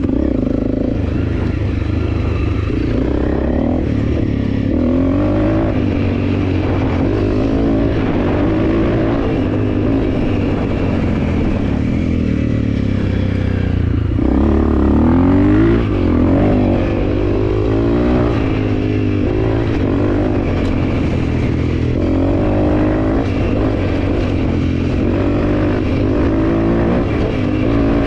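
Honda CRF300L's single-cylinder engine running under a rider on dirt double track, the revs rising and falling with shifts and throttle changes. It revs hardest about halfway through.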